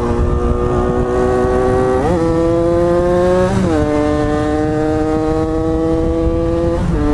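Motorcycle engine running under way, its pitch slowly climbing as it accelerates, with quick rises and drops in pitch about two and three and a half seconds in as it shifts gear, over low wind rumble.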